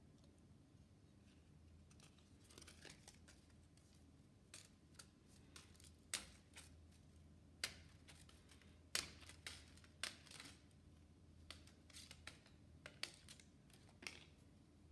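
About a dozen light, irregular clicks and snips, scattered and loudest around nine seconds in, over a faint steady low hum.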